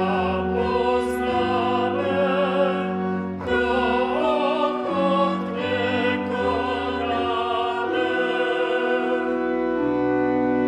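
A church hymn sung with steady, held organ-like accompaniment, moving note by note and closing on a long sustained final chord.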